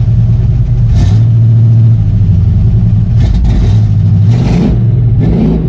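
Truck engine breathing through Hedman headers and a test-fitted Flowmaster muffler, idling with the throttle blipped four times: a short rev about a second in and three more in quick succession near the end. The engine is not yet up to temperature.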